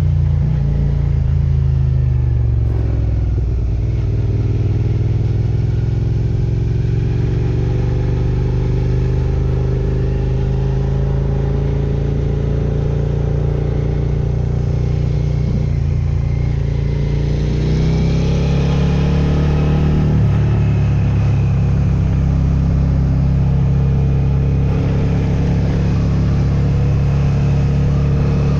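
Suzuki SV650X V-twin engine running steadily while riding. The revs drop over the first few seconds, then climb again about two thirds of the way through as the bike picks up speed.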